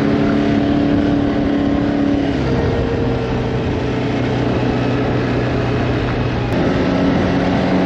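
Odes 650 ATV engine running under way, with a steady engine note that shifts about two seconds in and again near the end as the throttle changes.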